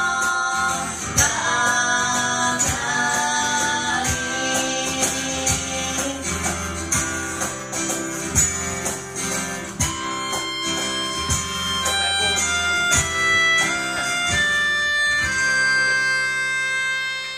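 Live pop-duo music: singing over guitar and hand percussion in the first few seconds, then an instrumental close of picked guitar notes and percussion strikes, ending on a held chord.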